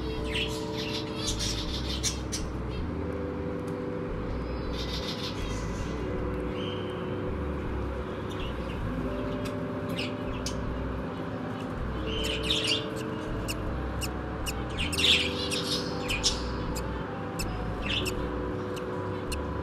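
Short bird chirps and squawks every few seconds over soft background music of slow held chords that change about every second and a half.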